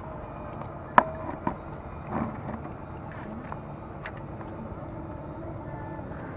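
Steady low outdoor background rumble with a few sharp clicks or knocks. The loudest click comes about a second in and another half a second later.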